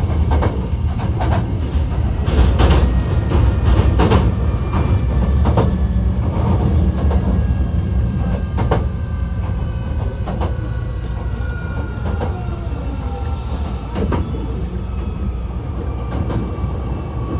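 Hankyu 1300 series electric train running: wheels click over rail joints over a steady rumble, while the whine of its Toyo IGBT-VVVF inverter and traction motors slides slowly down in pitch as the train slows. A brief hiss comes in just past the middle.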